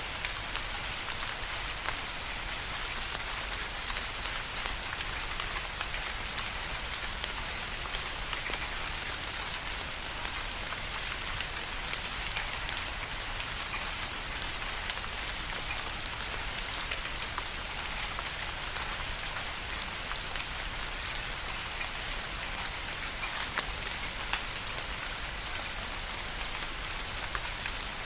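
Steady rain falling, a dense even hiss with many individual drops ticking.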